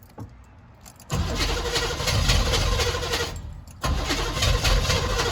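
Old diesel truck engine cranking on the starter without catching: it cranks for nearly three seconds, stops briefly, then cranks again. The engine is not firing, which the owner suspects is down to it being out of fuel.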